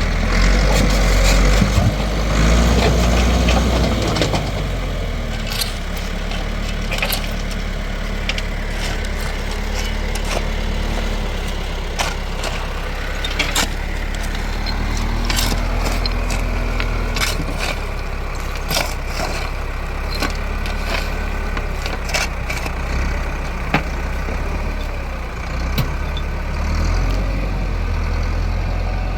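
Tractor engine running steadily, louder and busier for the first few seconds, with scattered sharp knocks and clatters throughout.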